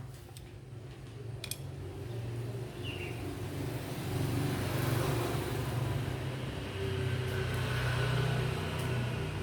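A motor vehicle's engine running with a low hum, growing gradually louder. A few small clicks sound right at the start.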